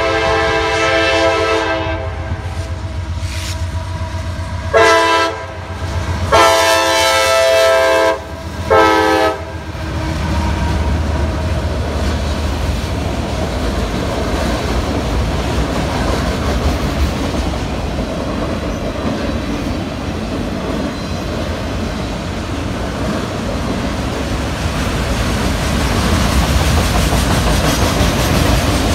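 Freight locomotive's multi-tone air horn blowing four blasts, long, short, long, short, over the first nine seconds or so. Then a train of autorack cars rolls past close by: a steady rumble of wheels on rail with clickety-clack, growing a little louder near the end.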